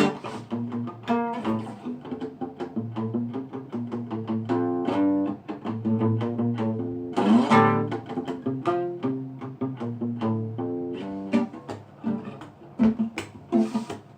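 Instrumental break in an acoustic reggae song: plucked acoustic guitar notes over steady low notes, with no singing.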